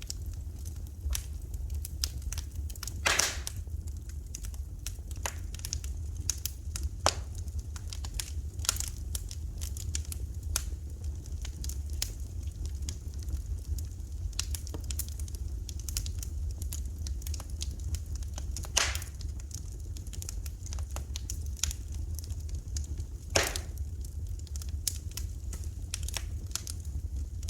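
Wood fire crackling in a fireplace: a steady run of small snaps and ticks, with three louder pops, one about three seconds in and two later on, over a low steady rumble.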